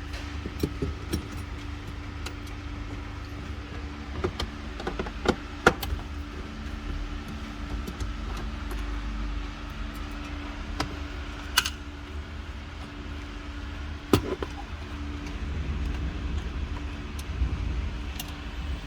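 Scattered clicks, taps and knocks of plastic dashboard trim panels and clips being handled and worked loose, over a steady background hum. The sharpest clicks come about a third of the way in, near the middle, and again a little later.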